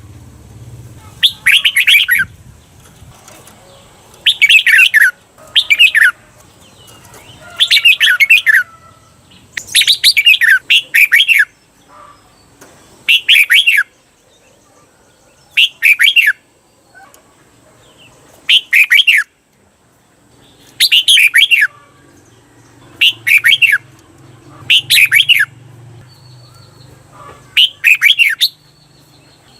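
Red-whiskered bulbul singing short, bright warbling song phrases every two to three seconds, several given twice in quick succession: the doubled song that keepers play to train caged bulbuls.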